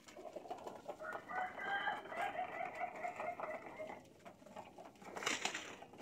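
A bird calling in one long pulsing call of about three and a half seconds, then a short rustle a little after five seconds in.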